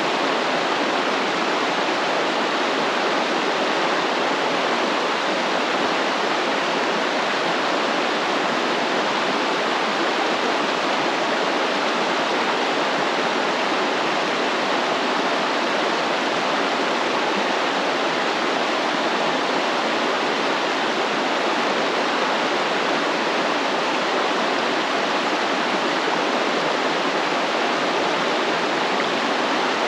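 A flowing stream: a steady, unbroken rush of running water.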